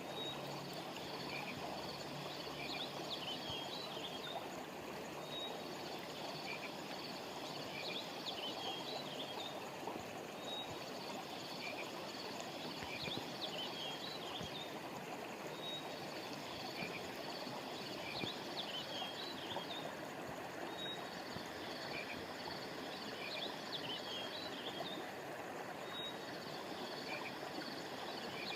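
Steady rushing of a flowing stream, with clusters of short, high chirping calls from small animals over a faint steady high trill. The chirp clusters come back about every five seconds.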